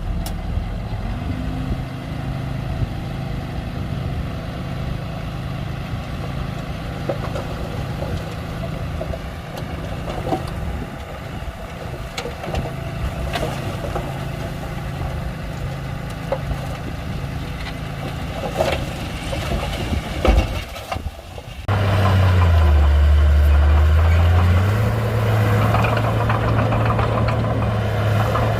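Komatsu D31-P bulldozer's diesel engine running steadily, with occasional sharp metallic clanks. About 22 seconds in it becomes abruptly louder and closer, dips in pitch for about two seconds, then holds steady at a higher pitch.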